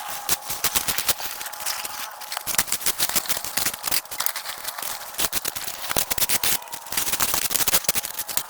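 Dense, irregular crackling and snapping, like dry brush and branches being cut and cleared, with a faint steady tone underneath.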